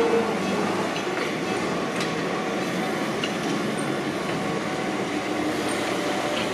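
Enoden (Enoshima Electric Railway) electric trains running along street-level track: a steady running noise of wheels on rail and motors, with a few faint clicks.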